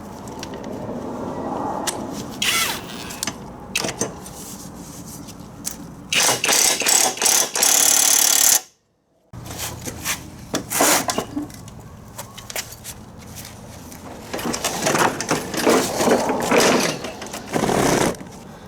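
Irregular clatter and rasping bursts of tool work on the mower, with sharp knocks, broken by a brief silent cut about nine seconds in.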